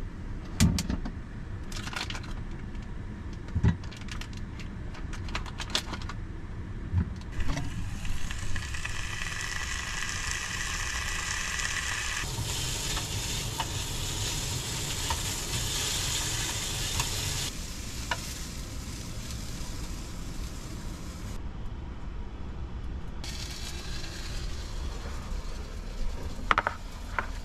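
Hot dogs frying in a pan, a steady sizzle that is loudest for a stretch in the middle, with a few sharp knocks of a utensil or pan in the first several seconds.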